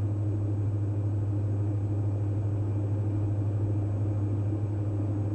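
Steady drone of a Diamond DA42 NG's twin Austro turbo-diesel engines and propellers in cruise, heard inside the cabin as a deep, even hum with no change in pitch.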